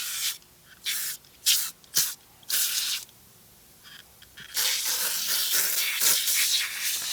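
Foam interior cleaner spraying with a hiss: about five short bursts, then one long continuous spray starting near the middle.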